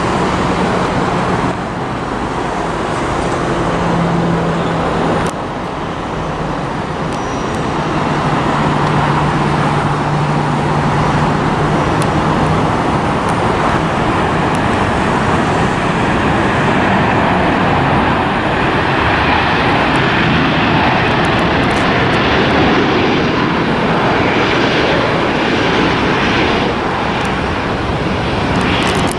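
Jet airliner engine noise that builds and holds loud through the second half, over steady road traffic.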